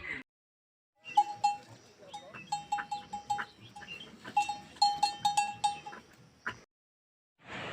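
Small bells on livestock, such as goats or cattle, clinking and ringing irregularly in quick, short dings as the animals move. The sound starts about a second in and cuts off abruptly near the end.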